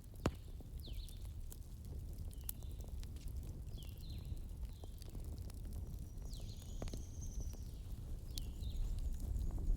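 Wood fire crackling, with a few sharp pops over a steady low rumble. Short high chirps recur about once a second throughout.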